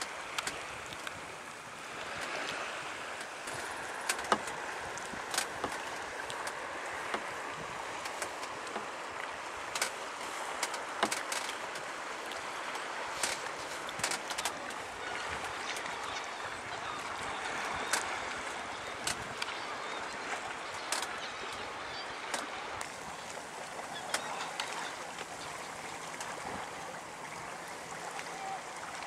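Water lapping and trickling in a steady wash, with scattered sharp clicks and knocks throughout.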